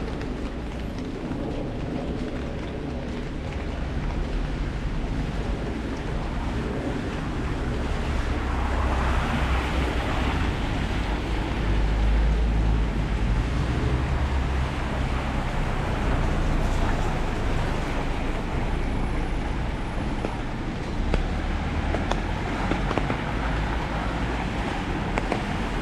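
Steady rain on an umbrella over a wet street, with a deep rumble underneath. The noise swells louder about a third of the way in and stays up for several seconds.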